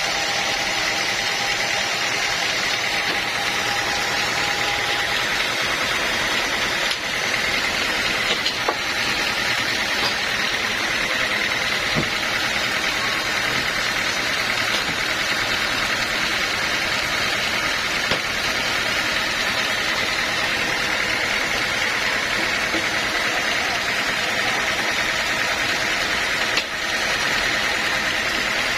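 Sawmill machinery running steadily: a constant mechanical drone with a few faint clicks.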